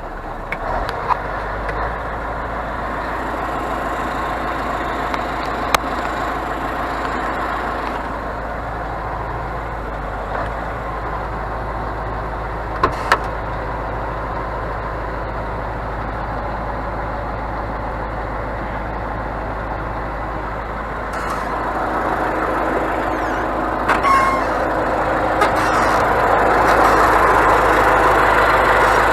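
Scania crane truck running: a steady engine sound with a low hum and a few sharp clicks, growing louder over the last several seconds.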